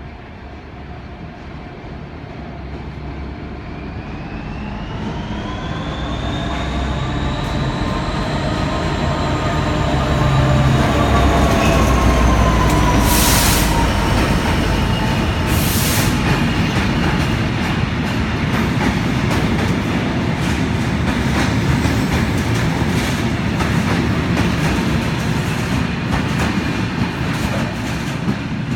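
Freight train hauled by an EWS Class 66 diesel locomotive passing through: a rising whine grows louder as it approaches and falls in pitch as it goes by. The wagons then rumble and clatter over the rail joints. Two short rushes of noise come about halfway through.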